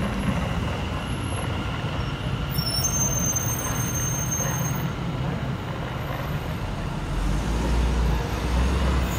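Electric multiple-unit passenger train running past at the platform and pulling away, with a steady rumble of wheels on rail. The low rumble grows heavier about seven seconds in.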